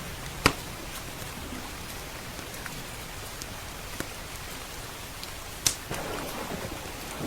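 Steady rain with a crackling wood fire: two loud sharp pops and a few fainter ticks. Near the end a low rumble of thunder begins to build.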